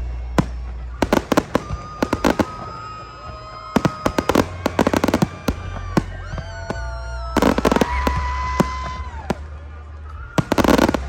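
Aerial fireworks going off: rapid sharp bangs and dense crackling bursts, with long steady whistling tones sounding between them.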